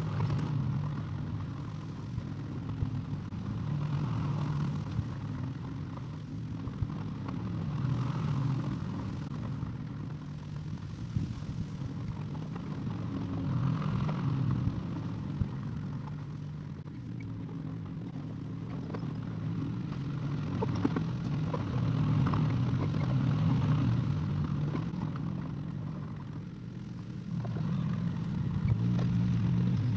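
Excavator's diesel engine running, rising and falling in level every few seconds as it works, with a few short sharp knocks of metal and stone.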